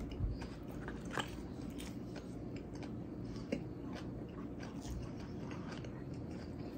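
A person chewing a mouthful of burger with faint crunches, and a few small sharp clicks, one about a second in and another past the middle.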